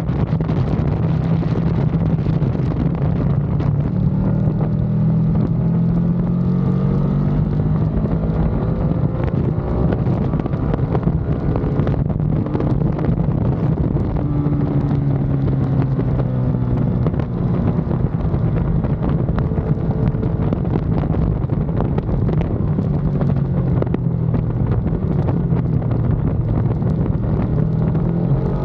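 Ducati Panigale V2's V-twin engine on the track, its note rising and falling as the bike accelerates and slows through the corners, with wind rushing over the microphone.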